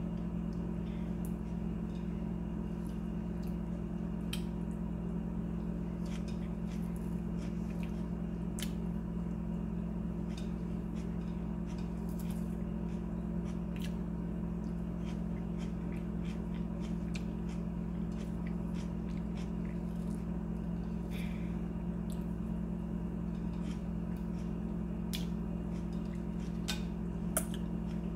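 A person chewing taquitos: scattered small clicks and mouth sounds over a steady low hum, with one sharper click near the end.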